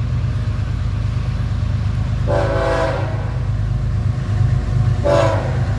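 Diesel locomotives of a BNSF freight train approaching with a steady low rumble. The locomotive air horn sounds two chord blasts: a longer one about two seconds in and a short one near the end.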